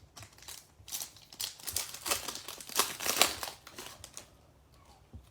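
A trading card pack wrapper being torn open and crinkled by hand, in a quick run of crackling bursts that stops about four seconds in.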